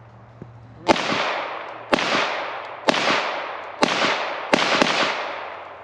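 Six pistol shots from a CZ Parrot, about one a second, with the last two close together. Each shot echoes and dies away.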